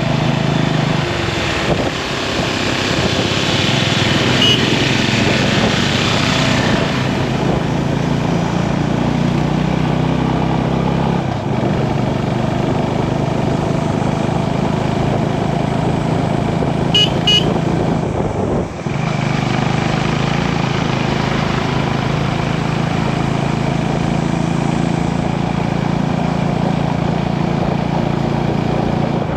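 Motorcycle engine running steadily while riding, with road and wind noise; the engine note shifts about 11 seconds in. Two short high beeps sound about 17 seconds in.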